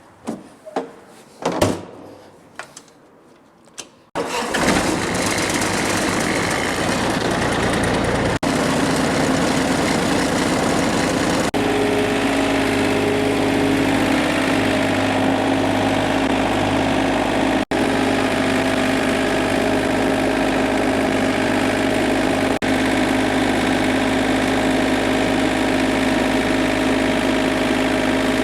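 John Deere 955 compact tractor's three-cylinder diesel engine starting after a few knocks, about four seconds in, then running steadily.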